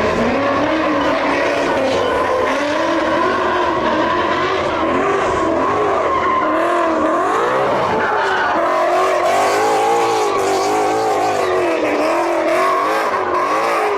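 Car engine revving hard, its pitch rising and falling again and again, with tires squealing as the car spins its wheels.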